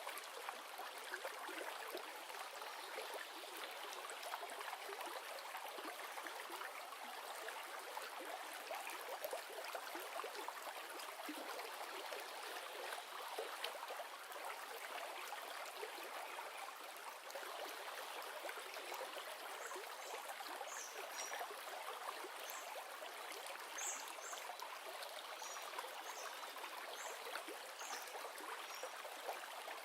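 A river flowing: a steady rushing and trickling of water. In the second half, short high chirps come at intervals over the water.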